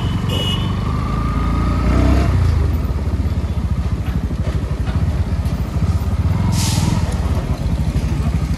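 Motorcycle engine running steadily with a rapid, even firing pulse. There is a brief hiss about six and a half seconds in.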